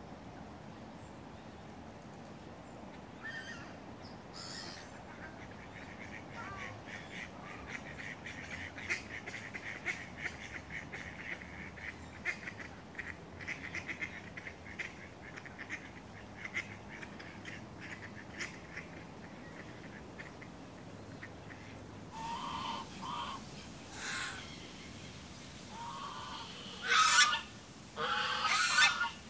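Birds calling: a long run of rapid chattering calls through the middle, then several louder calls in short bursts near the end, the loudest two at the very end.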